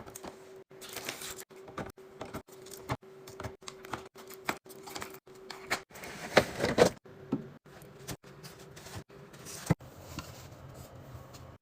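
Series of light clicks, taps and knocks from containers and packaging being handled and set down, with a louder rustling stretch about six to seven seconds in. A faint steady hum runs under the first half.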